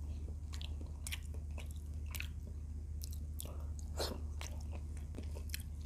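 Close-up chewing of a mouthful of food, with many short, sharp wet mouth clicks. A steady low hum runs underneath.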